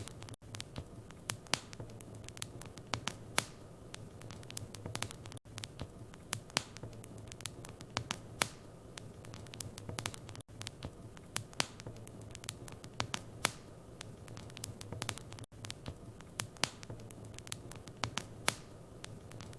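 Fire in a fireplace crackling, with many irregular sharp pops and snaps over a low steady hum. A brief dropout comes about every five seconds.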